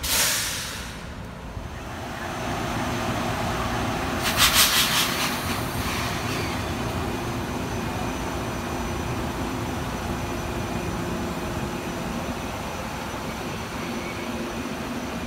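Budd M3A electric multiple-unit train rolling slowly along a station platform while braking under a penalty brake application caused by a cab signal failure. A loud hiss comes at the very start and a second, fluttering hiss about four seconds in, over steady wheel noise and a low hum.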